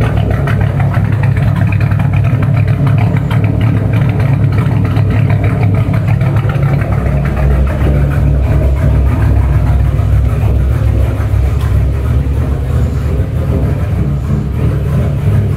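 2005 Ford Mustang GT's 4.6-litre V8, fitted with aftermarket camshafts, idling steadily with a fast pulsing exhaust beat.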